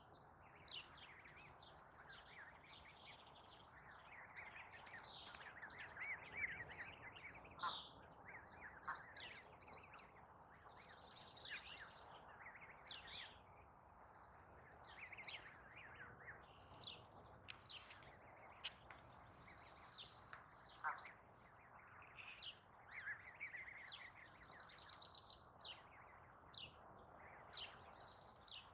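Wild birds chirping and calling, many short quick notes and downward-sweeping chirps with a few short rapid trills, over faint steady background noise.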